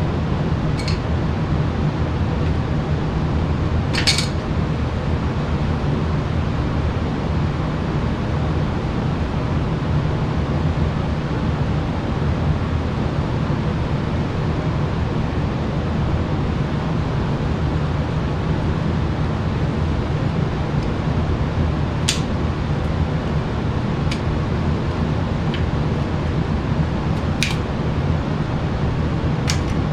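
Steady low mechanical hum, with a few short metallic clicks and clinks from hand tools, about four of them spread out.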